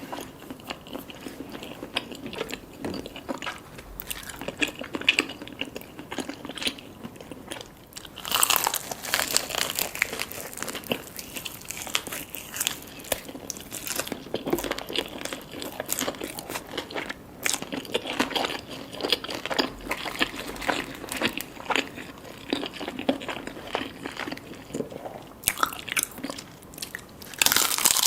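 Close-miked eating: crunching bites and chewing of crispy Jollibee Chickenjoy fried chicken. The crunching gets louder and denser about eight seconds in, and again near the end.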